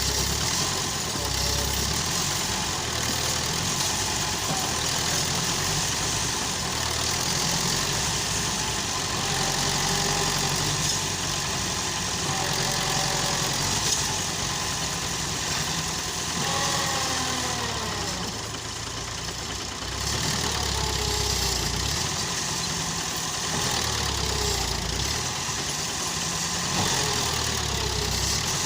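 Massey Ferguson 265 tractor's diesel engine running steadily while pulling a heavily loaded trolley, dipping briefly in loudness about eighteen seconds in.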